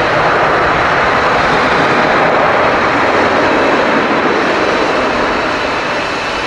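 Jet airliner's engines, a steady loud rush of noise that eases slightly near the end.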